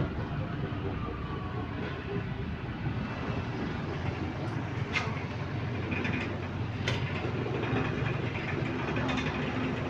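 Transit bus cabin noise: a steady low rumble of engine and drivetrain, with two sharp clicks about five and seven seconds in.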